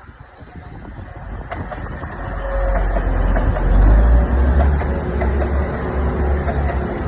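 A train running into the station: a low rumble that builds over the first three seconds or so, then holds steady and loud.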